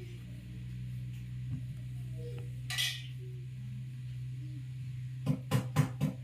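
Metal parts of a ceiling fan's motor clinking and scraping as its magnet rotor is handled and set back on the stator, over a steady low hum. Near the end comes a quick run of knocks, about five a second.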